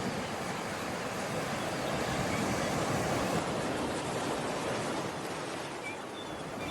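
Steady rush of sea surf, with no engine or voice standing out. A few faint short high chirps come near the end.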